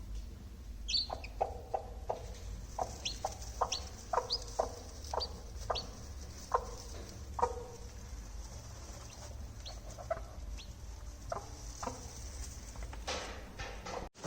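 Broody hen clucking in short, repeated notes, about two a second, with scattered high, falling peeps of chicks among them, over a low steady hum.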